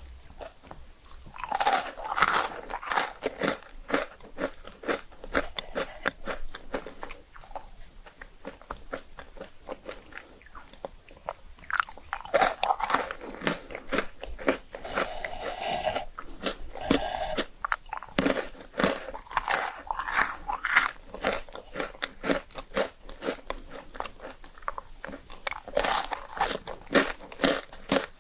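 A person biting and chewing crunchy puffed rice cakes close to the microphone, in several loud stretches of crunching with many small mouth clicks between them.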